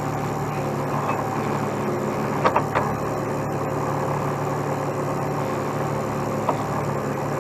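Heavy truck diesel engine idling steadily, with a couple of short sharp clicks about two and a half seconds in and a fainter one near the end.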